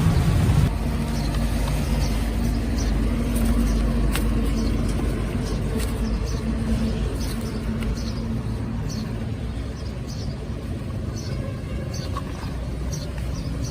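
Steady low rumble of road traffic, with short high bird chirps repeating, more often in the second half. Louder music-like sound cuts off just under a second in.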